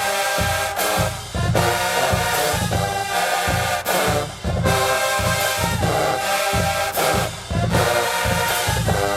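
HBCU marching band playing: brass section of trumpets and trombones sounding loud held chords over a steady drum beat.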